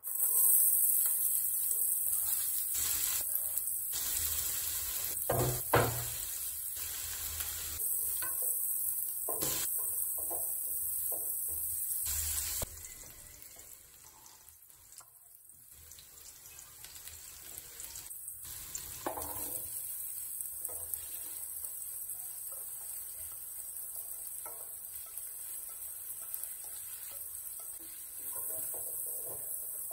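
Chopped red onions hitting hot oil in a stainless steel pot and sizzling loudly, stirred with a wooden spoon that knocks and scrapes against the pot. The sizzle drops off sharply about twelve seconds in and then builds back to a lower, steady frying, and near the end diced bell peppers are stirred into the pot.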